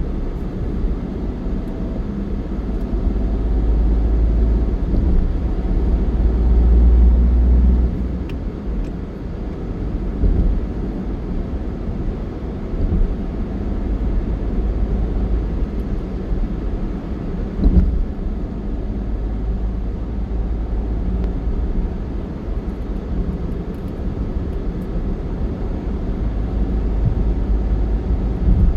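Steady low rumble of a vehicle on the move, with engine and road noise; it swells for a few seconds about a quarter of the way in, and there are a few light knocks.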